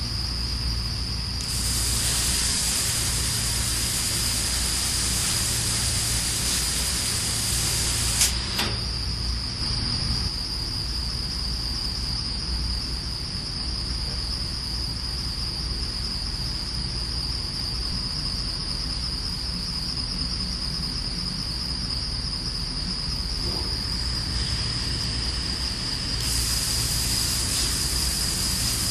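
VapoJet high-pressure water-vapour jet cutting machine running: a steady high-pitched whine over hiss and a low hum. The hiss grows louder a couple of seconds in and again near the end, with a sharp click about eight seconds in.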